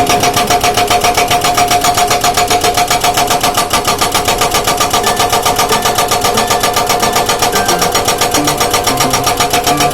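Excavator-mounted hydraulic breaker hammering rock, a rapid, even train of blows that keeps up without a break, over a steady whine.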